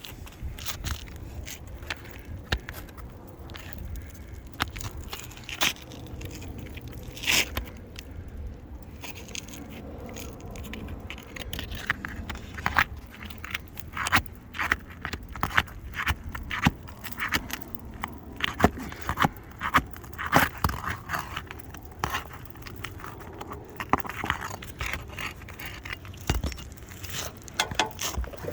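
Asphalt roof shingles being lifted and pried up, scraping and crackling with many short sharp clicks that come thicker in the second half.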